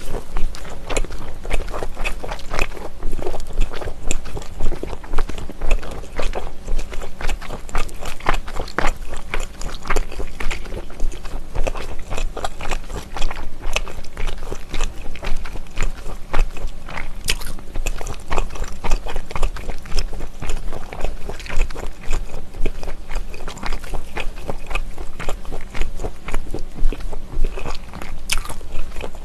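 Close-miked biting and chewing of a pan-seared smoked pork belly slab: a long run of crunching bites and chewing clicks, with no pause.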